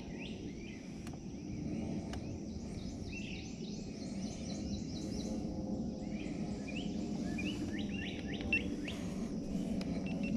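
Several birds chirping and calling over and over, over a steady low background noise.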